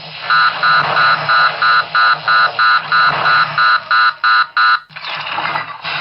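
Electronic beeping alarm from a proton pack sound effect, about three sharp beeps a second, fourteen or so, over a steady hiss and hum. The beeping stops about five seconds in while the hiss and hum go on.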